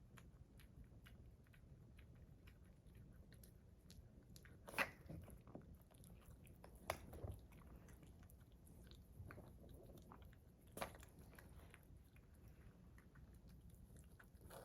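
Faint chewing by a small dog, with soft crunches and a few sharper clicks spread through it.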